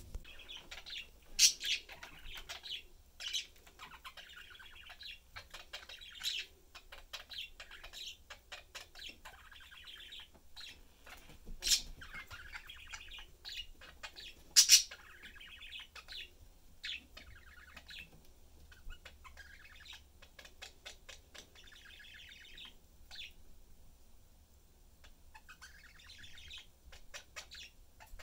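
Pet budgerigars chattering and warbling in a steady run of fast chirps, broken by a few sharp, loud chirps about a second and a half in, near twelve seconds and near fifteen seconds.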